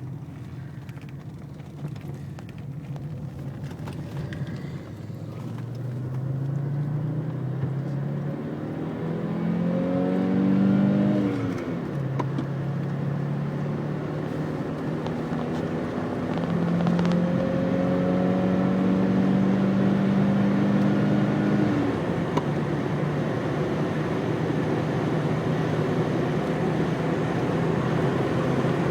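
Turbocharged 2.2-litre inline-five of an Audi 5000CS turbo quattro (MC engine with K24 turbo) accelerating hard through the gears. The engine note climbs, then drops at a gear change near the middle and again about two-thirds through. It gets louder overall as speed builds.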